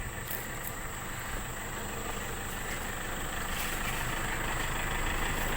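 A motor vehicle's engine running steadily, slowly growing louder.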